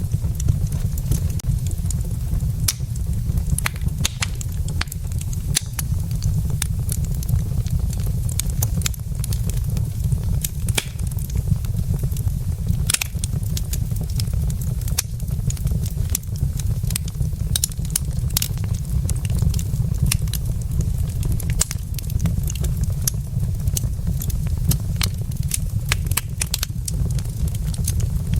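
Wood fire burning in a fireplace: logs crackling with frequent, irregular sharp pops over a steady low rumble.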